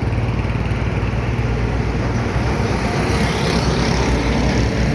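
Busy road traffic: engines of passing vehicles running steadily, with one vehicle passing close about three seconds in.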